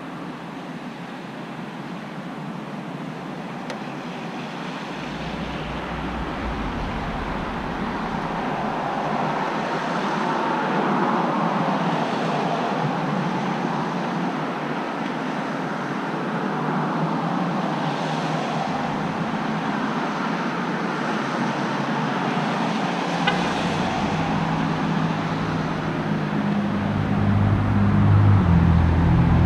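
Road traffic noise: a steady wash of vehicles passing, swelling and fading as they go by. A deeper engine rumble builds over the last few seconds.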